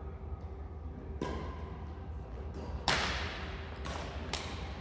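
Badminton rackets striking the shuttlecock in a rally: four sharp hits, the loudest about three seconds in, the last two in quick succession.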